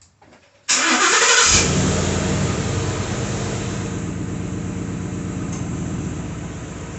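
2016 Ford Mustang's V8 engine starting: the starter cranks with a short rising whine, the engine catches about a second and a half in and flares up loud, then settles down toward a steady idle.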